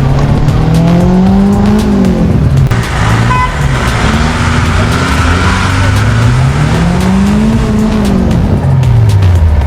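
Off-road 4x4 vehicle's engine revving hard, its pitch climbing and falling twice, over a steady hiss.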